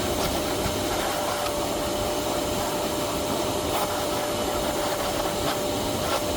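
Electric machine polisher running steadily while buffing car paint: an even whirr with a thin, constant whine.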